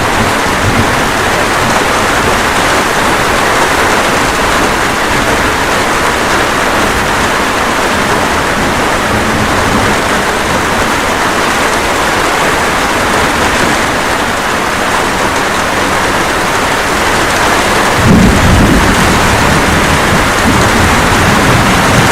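Steady rain falling, with a low roll of thunder that swells in near the end and keeps rumbling.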